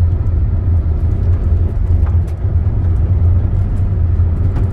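Car driving, heard from inside the cabin: a steady low rumble of engine and tyre noise, with a couple of faint ticks.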